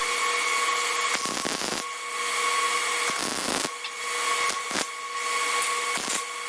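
Electric angle grinder running against steel, a steady high motor whine under a harsh grinding hiss. The hiss eases off a few times as the wheel is lifted and set back on the work.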